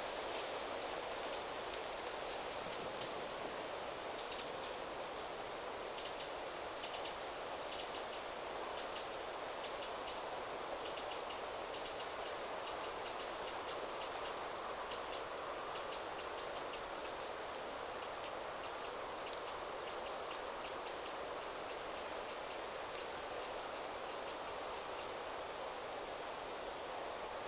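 A small songbird giving short, very high-pitched chirping calls, repeated in quick clusters of two to five until a couple of seconds before the end. Under it is a steady rush of wind through the trees.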